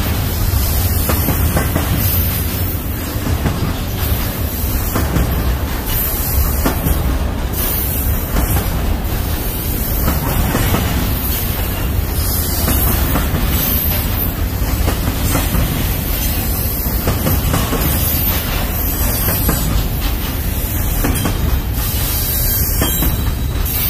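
Union Pacific double-stack intermodal freight train rolling past at close range: a steady rumble of wheels on rail, with repeated clicks as wheels pass over rail joints.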